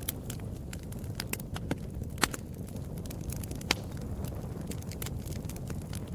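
Wood fire burning in a fireplace, crackling steadily with frequent small snaps over a low rumble, and two louder pops, one about two seconds in and another over a second later.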